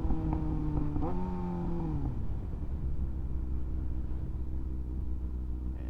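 2024 Kawasaki ZX-6R's inline-four engine running under way; about a second in the revs fall and the pitch drops, then it holds at a steady lower pitch.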